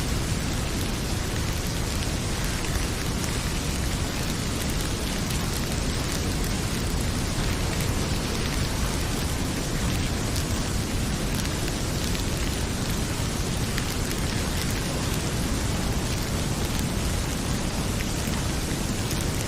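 Heavy rain pouring steadily, with a wood fire crackling in a fireplace: small, scattered pops over the rain.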